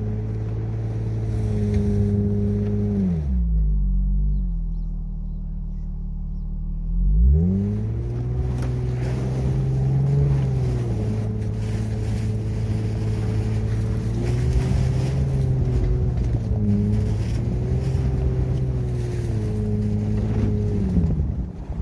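Infiniti FX35's 3.5-litre V6 engine working to drive the car through deep snow, its revs rising and falling. It settles to a low idle a few seconds in, revs up sharply at about seven seconds, then keeps pulling with the pitch swelling and easing.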